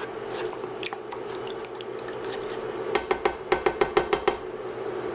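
Utensil stirring liquid sauce in a pan, with a quick run of about ten sharp clinks against the pan about three seconds in, over a steady hum.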